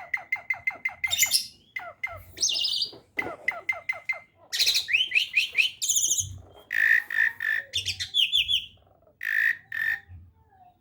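A jalak (Asian starling or myna) singing. It gives quick runs of short, falling chirps, then louder harsh squawks and whistled notes, and stops shortly before the end.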